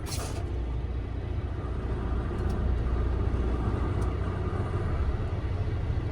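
Semi-truck diesel engine running as the rig moves slowly, a steady low rumble that grows slightly louder. A short hiss at the very start.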